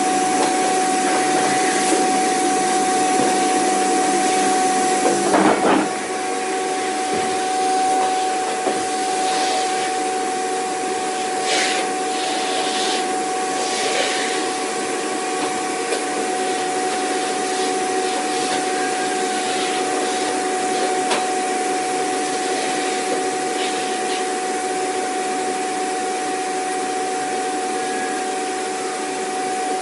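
Vacuum cleaner running continuously: a steady whine over a rushing hiss. About six seconds in it drops slightly in level, and it carries on steadily.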